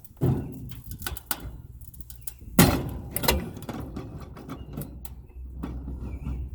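Irregular metal clanks and knocks of hand tools working on a furnace's sheet-metal casing while a seized bolt is being freed, with one loud bang about two and a half seconds in, over a steady low hum.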